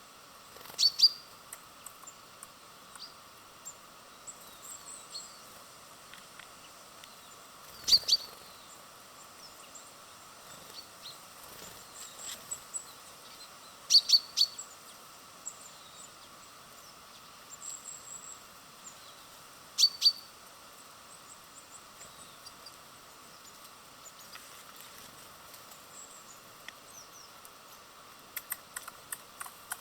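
Small birds at a feeder chirping, with four loud, sharp high calls about six seconds apart and fainter chirps between them. A quick run of ticks comes near the end.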